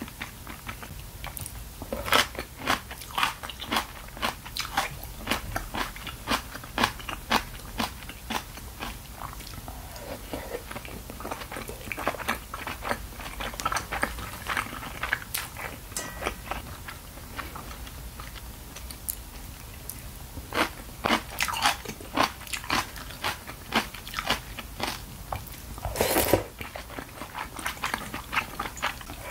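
Close-miked eating of udon noodles and fish cake: steady wet chewing with many short mouth clicks. A longer, louder sound of about half a second comes a few seconds before the end.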